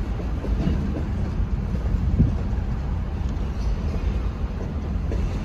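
Freight cars rolling past: a steady low rumble of steel wheels on the rails, with a few short knocks.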